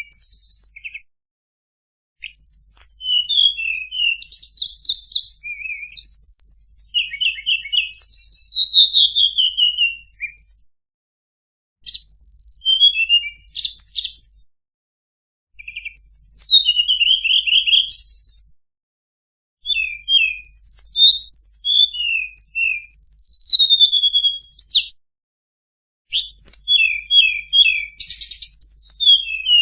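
Tledekan bird song in a masteran recording: phrases of rapid high chirps, trills and falling whistles, each several seconds long, with short pauses of about a second between them.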